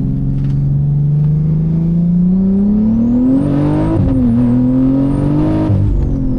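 BMW G80 M3's single-turbo straight-six accelerating hard, engine pitch climbing with a rising turbo whistle over it. A quick upshift comes about four seconds in, the revs climb again, then the throttle closes near the end and the turbo whine falls away.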